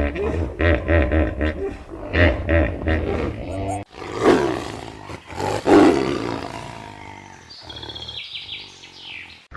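Rhythmic, pulsing animal calls for about four seconds, then an abrupt cut to a large animal roaring twice, trailing off into fainter high-pitched calls near the end.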